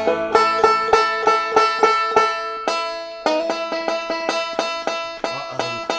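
A five-string banjo being picked in a quick run of bright plucked notes, with a brief break about three seconds in. Right afterwards the players remark on the banjo's tuning, taking it for out of tune.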